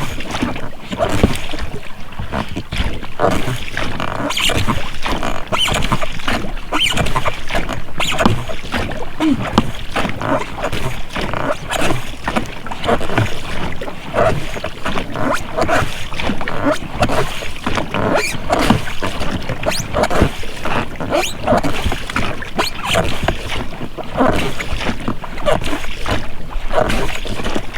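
Oars working in rubber rowlocks as a boat is rowed, with the blades splashing and dripping in the water and the rowlocks creaking and knocking.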